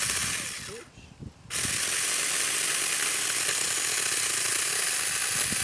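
Cordless 6-inch electric mini chainsaw running in a short burst, then starting again about a second and a half in and cutting steadily through a tree branch. It is a high-pitched, even mechanical whirr with no engine note.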